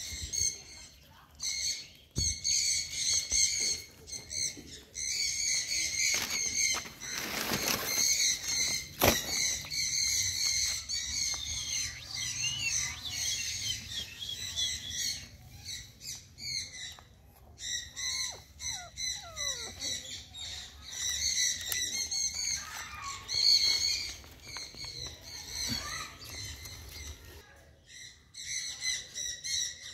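Small birds chirping and twittering without a break, with a brief noisy rustle about seven seconds in.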